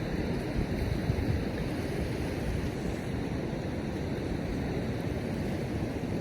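Ocean surf washing on the shore in a steady rush, with wind rumbling on the microphone.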